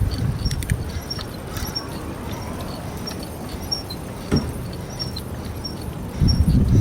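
Bicycle ride: a low rumble of tyres and wind with small high ticks about twice a second, a single knock a little past the middle, and the rumble growing louder near the end.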